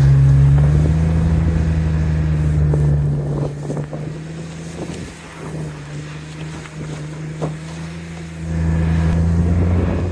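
Car engine running at steady high revs, easing off after about three seconds and pulling hard again a second and a half before the end.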